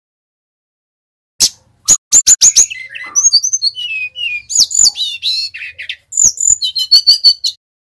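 A Bali jungle flycatcher (sikatan rimba dada coklat, 'SRDC') singing a fast, varied song of sharp high chips and quick down-slurred whistles. It starts about a second and a half in and comes in several bursts with short breaks.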